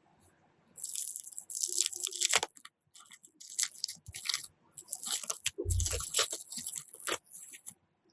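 Packaging being handled and unwrapped during an unboxing: crinkling and rustling in uneven bursts for several seconds, with one dull thump about two-thirds of the way through.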